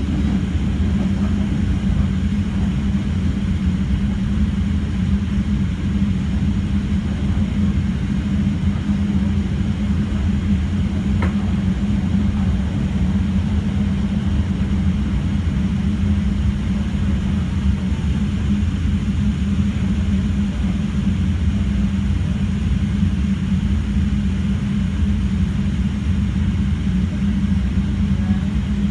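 Steady low rumble and hum of a CTA Red Line 'L' train, unchanging throughout.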